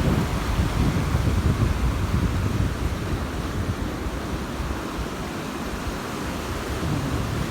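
Wind buffeting the microphone in gusts over the steady hiss of surf breaking on the beach.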